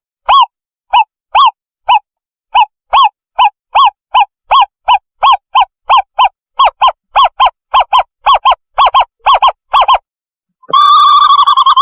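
Recorded owlet call played as a bird-trapping lure: a series of short, clear hoots that quicken from about two to three a second, then after a brief pause near the end a fast continuous trill.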